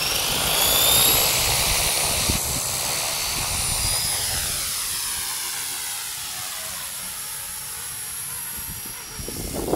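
Small electric RC helicopter (Blade 200 SR X) with its rotors and motor whining high: the pitch rises as it spools up in the first second, then holds steady while lower tones slowly fall.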